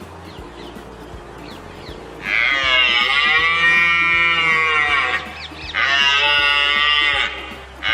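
Two long, moo-like lowing calls, each lasting two to three seconds, over soft background music. A third call begins at the very end. They are played as the reindeer's call.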